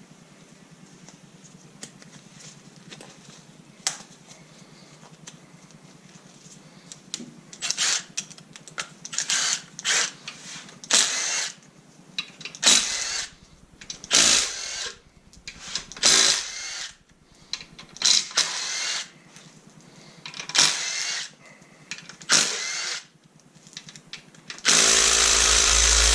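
Handheld power tool run in about a dozen short bursts of a second or less, then one longer run near the end, backing out engine bolts. Before the bursts start, only faint clicks of hand work.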